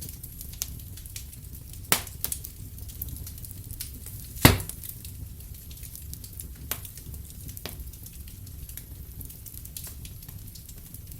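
Wood fire burning in a fireplace: a low steady rumble with scattered crackles and pops, the loudest pop about four and a half seconds in.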